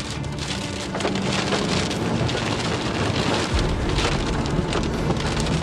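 Rain pattering on a car's windshield and roof, heard from inside the moving car over the low steady drone of the engine and tyres. The rain gets louder about a second in.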